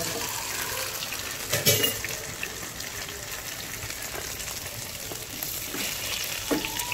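Flour-battered tofu cubes sizzling as they fry in hot oil in a pot, a wooden spatula stirring them. A brief louder knock comes about a second and a half in.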